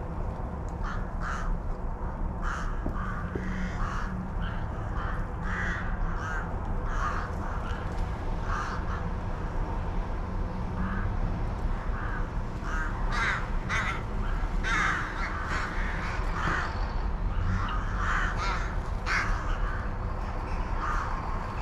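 Crows cawing: many short caws in irregular runs, over a steady low rumble.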